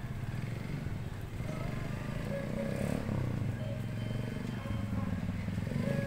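Small motorcycle engine running as the bike rides up, growing louder toward the end. It is the Skygo ERL 100-based scrambler, running again after about a year off the road, with its carburettor cleaned and a new spark plug cap and fuel filter fitted.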